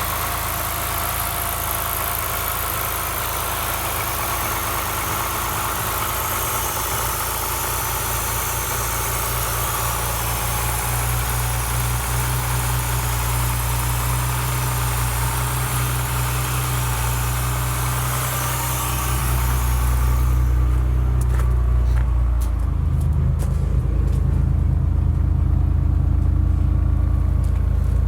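BMW S50B32 straight-six race engine from an E36 M3, running steadily at a constant speed. A high hiss over the engine stops about two-thirds of the way through, and the engine note then sounds a little louder and fuller in the low end.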